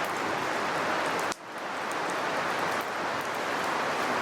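Wood campfire burning, a steady hiss with faint small crackles; the sound drops out for a moment about a second in.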